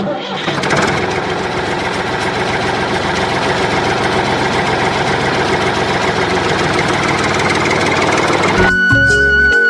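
Small electric motor of a homemade toy tractor running steadily with a dense, buzzing rattle. It starts abruptly and gives way to music near the end.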